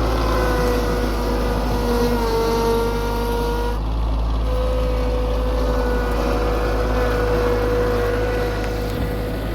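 Tractor engine running steadily under a continuous high whine, which sags slightly in pitch about two seconds in and briefly drops out around the four-second mark.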